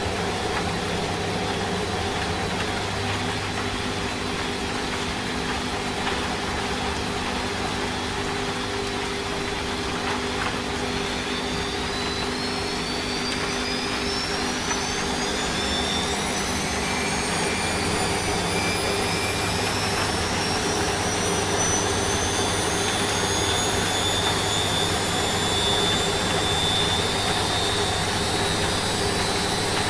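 Washing machine spinning up: a steady hum under a high motor whine that climbs in pitch from about a third of the way in, then holds at a higher pitch as the drum reaches spin speed.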